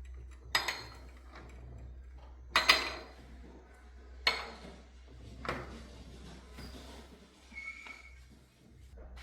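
Hard objects being handled: four sharp clinks or knocks about one to two seconds apart, then a brief high ring near the end, over a steady low hum.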